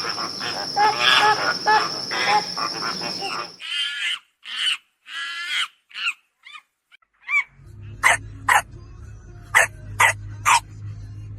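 Dog vocalising in short, separate barks and yelps, in several clips cut one after another, with a run of sharp barks over a low hum in the last few seconds.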